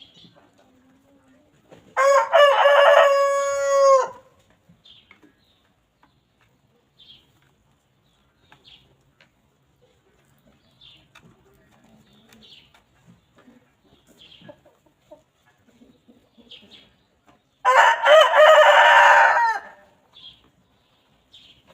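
A rooster crowing twice, each crow about two seconds long and some fifteen seconds apart. Faint short calls come in between.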